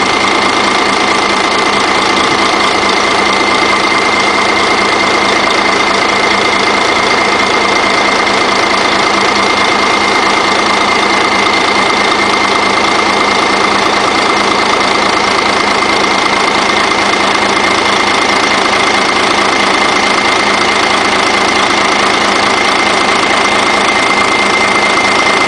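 Iveco Stralis diesel engine running steadily on test after adjustment of its unit-injector preload, with a constant high whine over the engine note.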